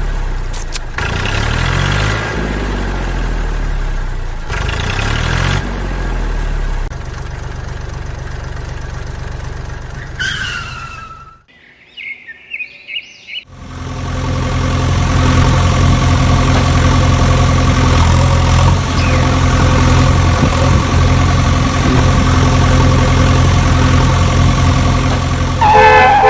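A vehicle engine running, revving up in repeated sweeps about every two seconds; about eleven seconds in it stops for a couple of seconds in which birds chirp, then an engine runs steadily with a deep, even hum.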